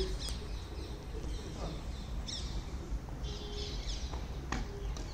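Small birds chirping in quick falling notes, with a burst of chatter about three seconds in, over a steady low outdoor rumble. A single sharp hit about four and a half seconds in fits a badminton racket striking the shuttlecock.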